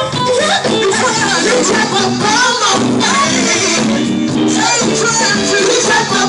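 Loud, steady gospel music with singing, from a church praise band and vocalists.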